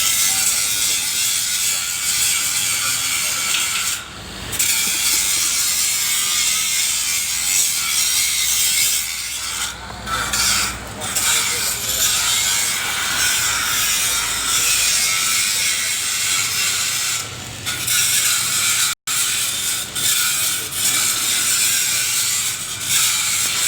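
Electric arc welding on galvanized steel pipe: a dense, steady crackling hiss that stops briefly a few times as the arc is broken and struck again.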